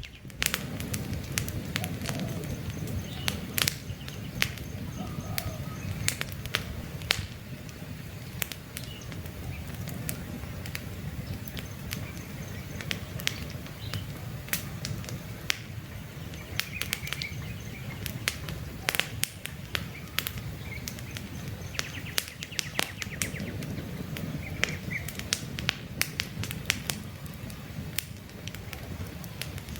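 Campfire burning, with frequent sharp crackles and pops of the wood over a low, steady rumble of the flames. Faint bird chirps come through now and then.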